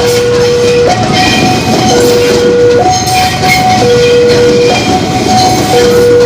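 Level crossing warning alarm sounding a two-tone signal that switches between a lower and a higher tone about once a second, over the loud noise of an electric commuter train running past on the rails.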